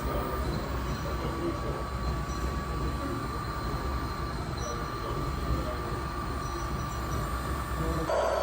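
Radio-controlled model construction truck running: a steady high electric whine over dense mechanical grinding noise. The sound changes abruptly near the end.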